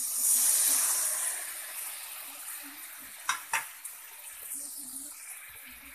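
Coconut milk poured into hot fried spice paste in a wok, sizzling loudly at first and dying down over the next few seconds; the paste has been fried until its oil separated. Two light knocks on the pan come a little past three seconds in.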